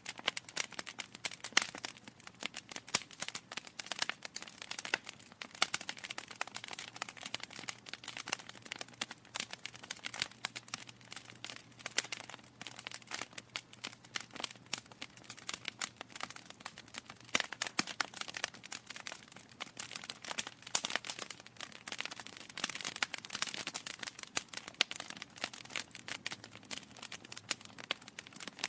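Wood fire crackling: a dense, irregular patter of small sharp pops and snaps from burning logs.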